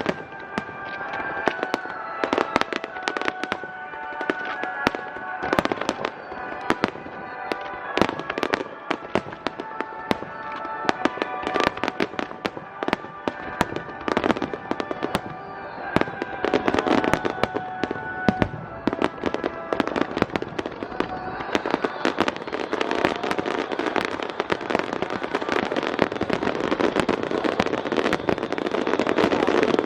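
Aerial fireworks bursting in quick succession, many sharp bangs, over music played along with the show. In the last third the bursts grow denser into a continuous crackling barrage.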